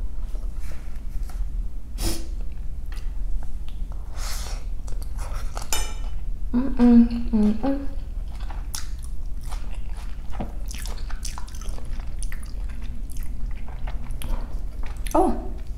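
Close-miked chewing of chicken pad thai rice noodles: wet, sticky mouth clicks and smacks throughout. About seven seconds in, a short hummed vocal sound.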